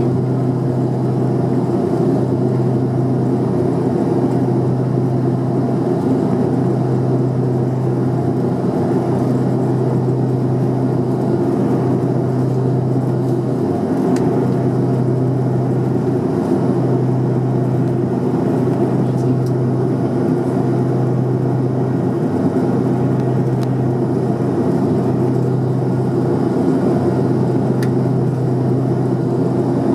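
Twin turboprop engines and propellers of a Jetstream 41 heard from inside the cabin at high power: a steady deep propeller drone that swells and fades every couple of seconds as the two propellers beat against each other, over a broad engine roar.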